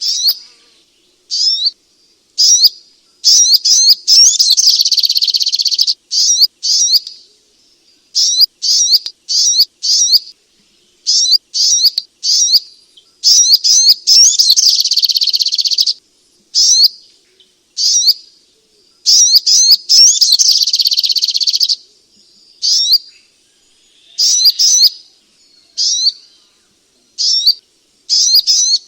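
Sogok ontong songbird singing: rapid, high chirping phrases, some short and some running for two or three seconds, broken by brief pauses.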